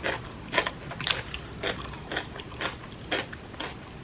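Close-miked chewing of crunchy food, with crisp crunches about twice a second.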